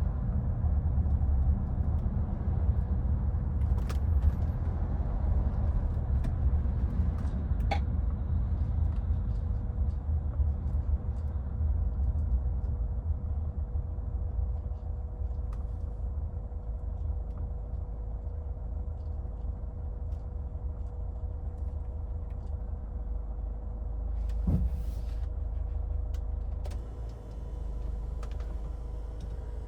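A 2014 Hyundai Santa Fe driving in city traffic: a continuous low rumble of engine and road noise, with a faint steady tone under it and a few short clicks and knocks. The rumble eases off gradually toward the end.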